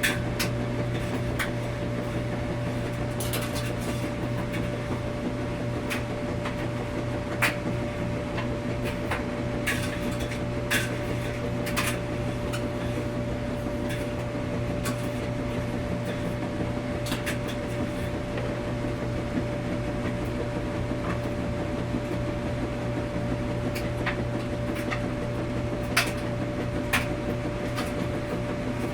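Washing machine running steadily with a low hum and a faint steady whine, with light irregular clicks and knocks from the drum throughout.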